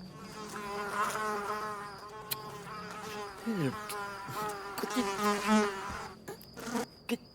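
Cartoon sound effect of a buzzing insect: a wavering, high buzz that runs for about six seconds, then gives way to a few short sounds near the end.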